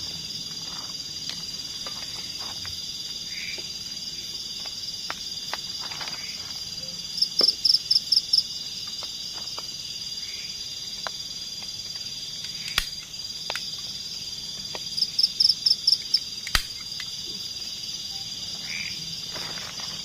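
Steady high-pitched chorus of forest insects, with twice a louder run of about seven quick pulsed calls from a nearby insect or frog. Scattered sharp clicks sound now and then.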